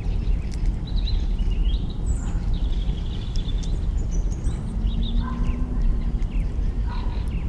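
Campfire crackling, with scattered sharp snaps, over a steady low rumble, while birds chirp and call repeatedly.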